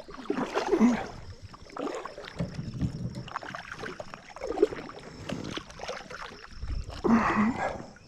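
Water splashing and knocking in and around a fishing kayak, coming in irregular bursts while a hooked fish is fought.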